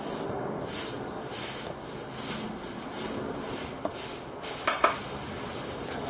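Rhythmic rasping strokes of a hand tool working material, about one and a half strokes a second, with a couple of sharp clicks near the end.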